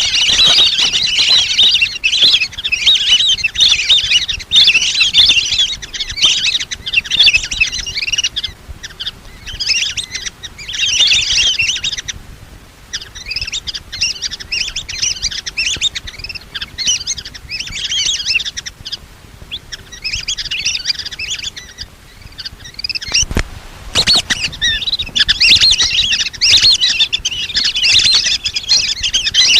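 A flock of lesser whistling ducks calling: rapid, high, overlapping whistled chirps in bursts of a second or two with short gaps. A sharp click about three-quarters of the way through.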